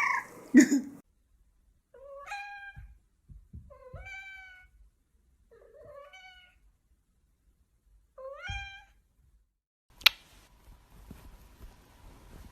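A domestic cat meowing four times, about two seconds apart, each call rising in pitch and then holding. A single sharp click comes about ten seconds in.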